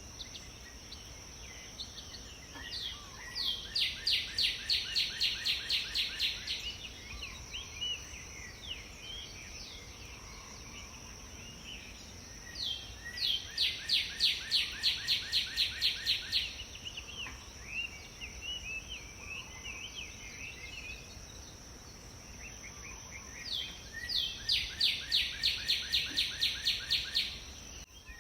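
A songbird singing a trill of rapid falling notes, about six a second for some three seconds, repeated three times roughly ten seconds apart, with scattered shorter chirps between. A steady thin high-pitched whine runs underneath.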